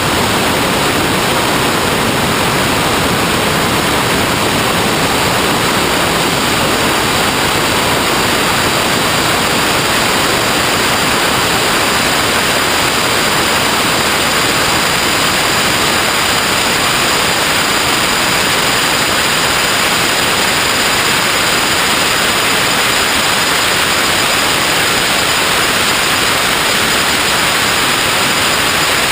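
Loud, steady hiss like static or white noise, unchanging, with a faint high thin whine in it.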